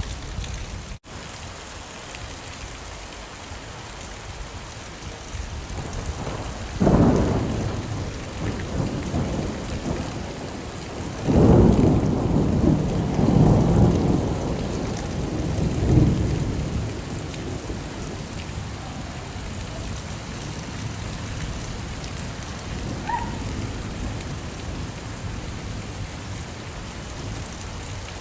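Steady rainfall with thunder: one roll of thunder about seven seconds in and a longer, rolling peal with several swells from about eleven to sixteen seconds. The rain sound cuts out for an instant about a second in.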